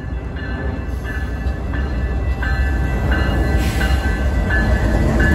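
Canadian Pacific GE ES44AC diesel-electric locomotive, with its GEVO V12 engine, leading a freight train past at close range; the low engine and rail rumble grows louder as it nears. A short ringing ding repeats about every 0.7 seconds over it.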